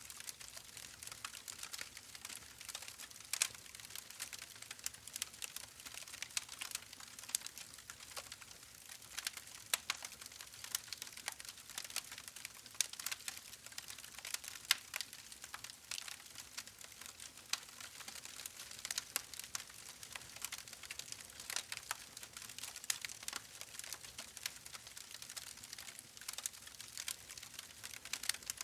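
Wood fire burning in a fireplace, crackling with many small irregular pops and snaps over a soft hiss.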